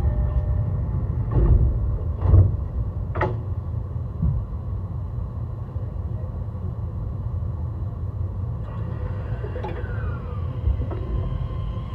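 Running sound inside a JR East E131 series 600-subseries electric train in motion: a steady low rumble with three thumps in the first four seconds. Near the end a faint falling whine from its Hitachi hybrid SiC VVVF inverter.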